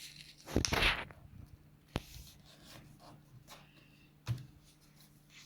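A sheet of paper being flipped over and folded by hand: a loud brief swish of paper near the start, then a sharp tap about two seconds in and another about four seconds in, with faint rustling between.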